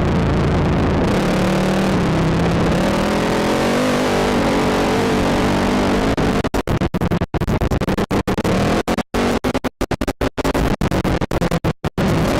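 ATV engine running and changing pitch as the throttle varies. From about six seconds in the sound keeps cutting out abruptly in rapid dropouts.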